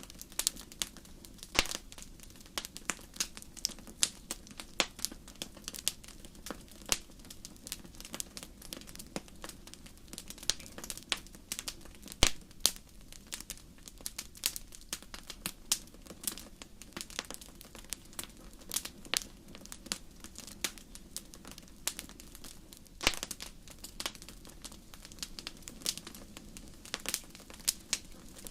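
Wood fire crackling in a fireplace: irregular sharp pops and snaps, several a second, over a low steady rush of flames, with one louder pop about twelve seconds in.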